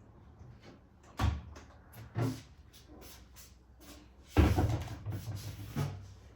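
Clunks and knocks of food and containers being packed into a fridge: two sharp knocks, then a louder clatter about four seconds in.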